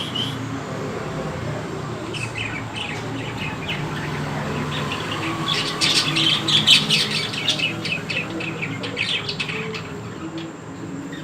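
Small birds chirping and twittering in quick, overlapping calls, busiest a little past the middle.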